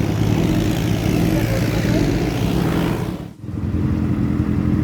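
Motorcycle engine running steadily while riding, under a steady hiss of road and wind noise. The sound drops out briefly about two-thirds of the way through.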